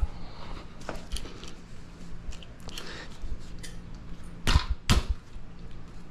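Small clicks and knocks of hand work on a dirt bike's handlebar while a grip is fitted, with two louder sharp knocks about four and a half and five seconds in, over a faint steady hum.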